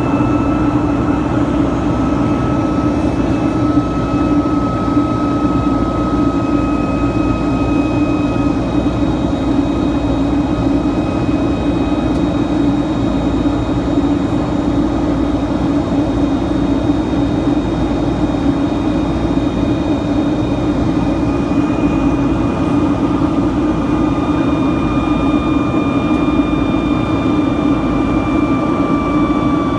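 Boeing 757-200's Rolls-Royce jet engines heard from inside the cabin: a steady, loud roar with a thin high whine that slowly drops in pitch.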